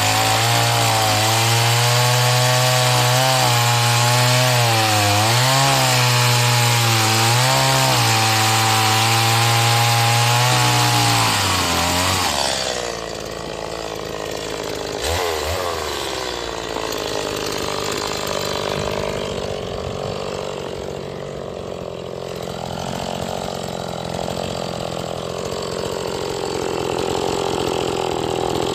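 New STIHL MS 180 two-stroke chainsaw being run in, revved high with its pitch dipping and recovering as it cuts through wood for about twelve seconds. It then drops back to a quieter, lower idle.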